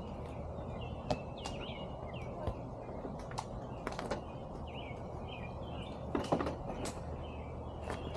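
Scattered light clicks and knocks of hand work on a car's bumper and plastic clips, with a quick cluster of them about six seconds in. Small birds chirp repeatedly in the background over a low steady hum.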